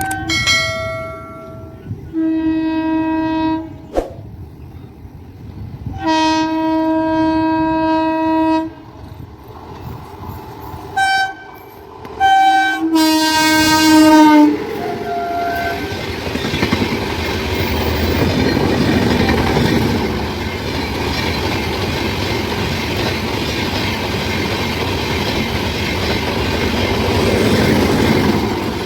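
Indian Railways WAP-7 electric locomotive's horn sounding a series of loud blasts, long ones and short toots, ending about fourteen seconds in. The express then runs through at speed with steady wheel and rail noise.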